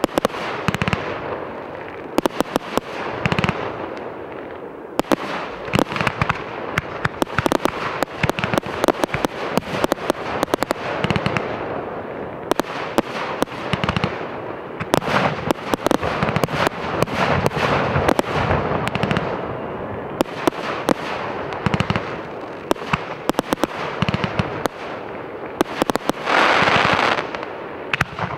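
Professional 1.3G display fireworks, aerial shells and cakes, firing in a steady run of sharp bangs over continuous crackling. A louder, denser rush of crackle comes near the end.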